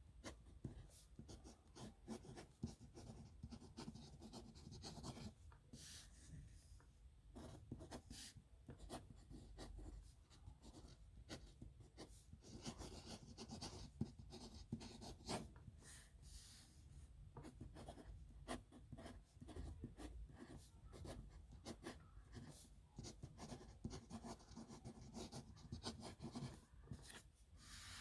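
Faint pen scratching on paper in many quick, short strokes with light clicks between them: a signature being written by hand.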